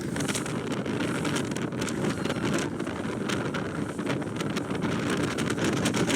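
Wind buffeting the microphone aboard a motorboat running at speed, over a steady rush of engine and water noise, with frequent short crackles.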